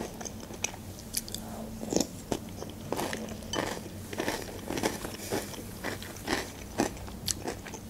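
Close-miked chewing of a mouthful of Nesquik Duo chocolate cereal balls in milk: a run of irregular, crisp crunches.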